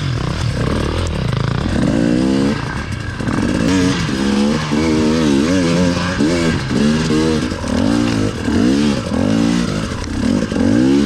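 KTM TPI two-stroke enduro dirt bike ridden on a trail, its engine revving up and dropping back again and again, about once a second, as the throttle is worked.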